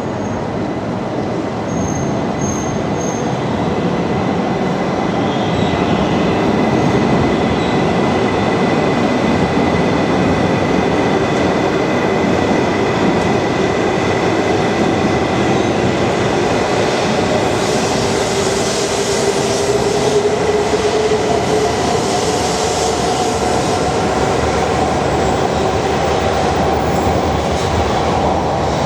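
Shinkansen train moving along the station platform: steady rumbling wheel and running noise, with a motor whine that slowly rises in pitch over the second half.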